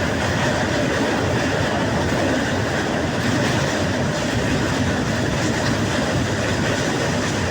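Passenger train running along the track, heard from inside the coach: a steady rumble and rattle of the wheels on the rails.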